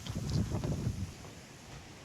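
Mountain wind buffeting the microphone in gusts, a low rumble strongest in the first second and easing off after.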